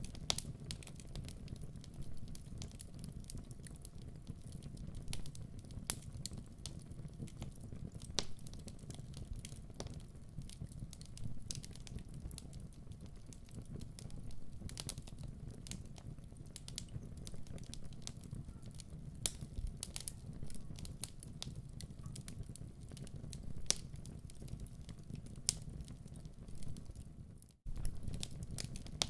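Wood fire crackling in a fireplace: irregular sharp pops and snaps over a steady low rumble of the burning logs. The sound cuts out for a split second near the end, then carries on.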